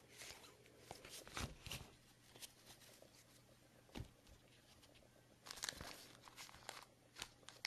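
Faint handling of trading cards and card packs: a few soft scattered taps, then a short spell of light rustling about five and a half seconds in.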